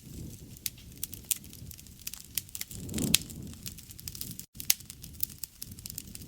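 Wood fire crackling, with irregular sharp pops over a low rushing bed and a swell of the low sound about halfway through. The sound cuts out for a split second just past the middle.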